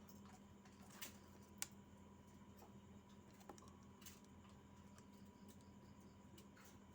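Near silence: a faint steady electrical hum with a thin high tone, and a few faint clicks, two of them close together about a second in.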